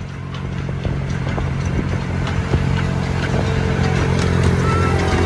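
An engine running steadily, slowly getting louder, with scattered light ticks.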